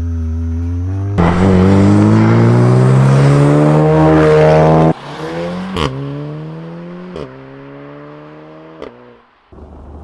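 A turbocharged four-cylinder hot hatch's engine and exhaust. It runs steadily, then about a second in accelerates hard, its note rising for about four seconds before cutting off sharply as the throttle lifts. The revs then fall away, with three sharp exhaust cracks.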